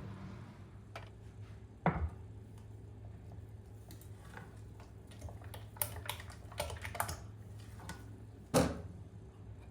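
Kitchen work sounds: scattered clicks and knocks of utensils and dishes being handled, with two louder knocks about two seconds in and near the end, and a quick run of lighter clicks in between, over a low steady hum.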